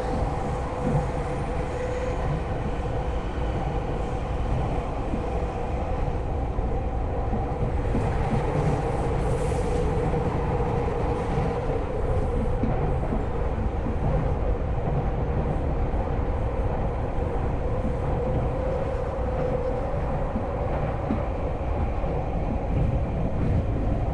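Electric commuter train running at speed, heard from inside the car: a steady rumble of wheels on rail under a constant motor hum. It is briefly louder in the first second as another train passes on the next track.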